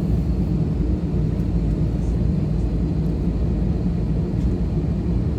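Steady low rumble of an airliner's engines and cabin noise, heard from inside the cabin while the plane sits on the ground waiting to take off.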